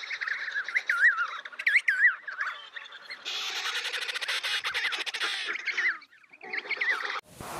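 Birds squawking: short pitched calls that rise and fall, repeated, with a denser run of calls in the middle. A few more calls follow a brief lull, and then the sound cuts off sharply near the end.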